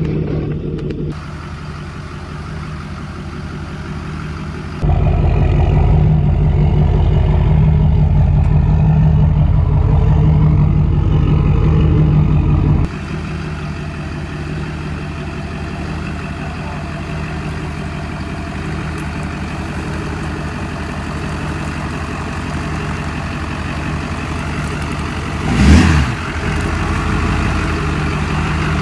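Duramax 6.6-litre V8 turbo-diesel truck engine running at low speed under light load. The sound steps abruptly louder or quieter a few times and is loudest between about 5 and 13 s, with a short loud swell in pitch and level near the end.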